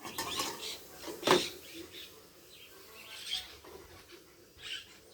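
Kitchen knife cutting onion against a cutting board, with one sharp knock about a second in and a few softer taps.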